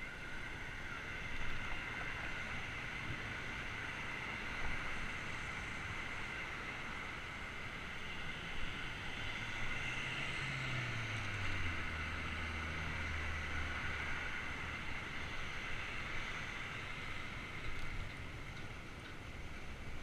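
Bicycle riding noise picked up by a GoPro: a steady rush of wind and rolling noise with a continuous higher whir. About halfway through, a low motor drone drops in pitch and holds for a couple of seconds before fading.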